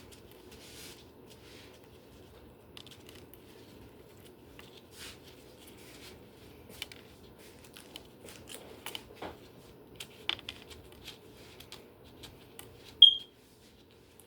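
Light kitchen handling sounds: scattered small clicks, taps and rustles over a low steady hum, with one short, loud, high-pitched ping near the end.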